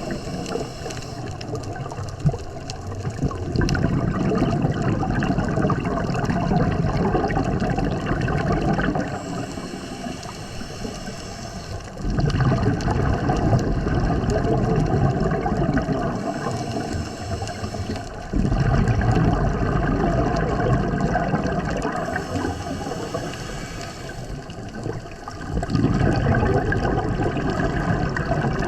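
A scuba diver breathing through a regulator underwater: exhaled bubbles rush and gurgle for a few seconds, then a quieter hissing inhale, in a slow repeating cycle about every six seconds.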